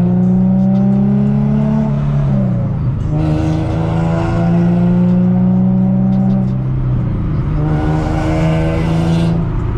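Infiniti G37 sedan's V6 with a loud aftermarket exhaust pulling through the gears of its six-speed manual, heard from inside the cabin: the engine note climbs in each gear and drops at upshifts about two and a half and seven seconds in, and again near the end. The owner takes the exhaust sound for a sign of an exhaust leak somewhere.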